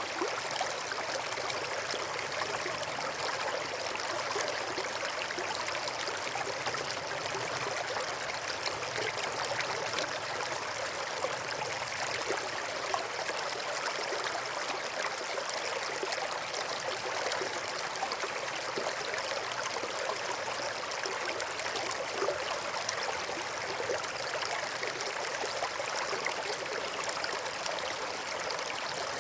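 Brook flowing, a steady, unbroken rush and trickle of running water.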